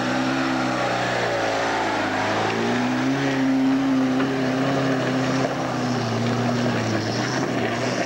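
Lada Niva 4x4 engine running under load as it drives the off-road course and climbs a muddy track, its pitch rising about three seconds in, holding, then dropping again near the end.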